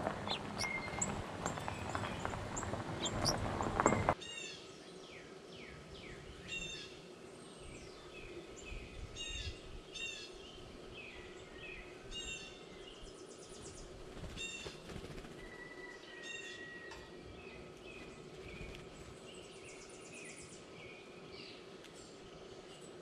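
Wild birds singing and calling: repeated short chirps and quick falling whistled notes. For the first four seconds these are nearly covered by loud close scratching and rustling with clicks right at the microphone, which stops abruptly.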